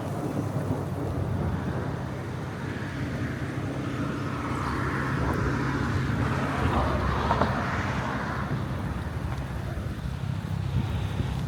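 Steady low hum of an idling vehicle engine. A vehicle passing by swells and fades about four to eight seconds in.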